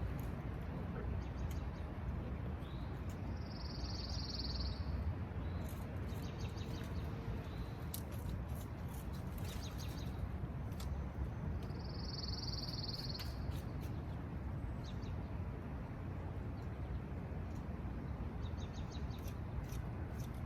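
Bird calls twice, each lasting about a second and a half, over a steady low outdoor rumble, with scattered light clicks in between.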